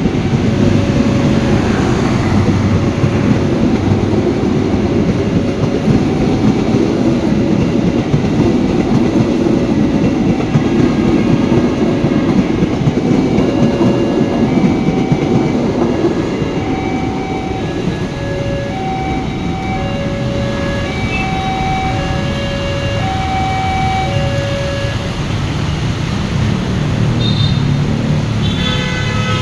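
Pertamina fuel train moving out, its wagons giving a steady heavy rumble that eases a little about halfway through. Over it, a short two-pitch tone repeats about once a second.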